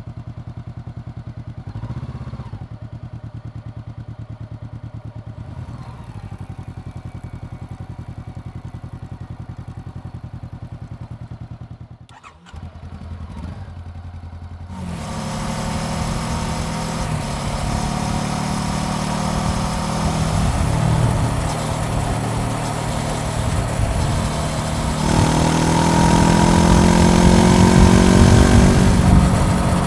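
Honda CBR400R's parallel-twin engine idling steadily, then, after a brief drop about twelve seconds in, the bike pulls away and accelerates, the engine note rising and falling through the gears with wind rush growing louder toward the end.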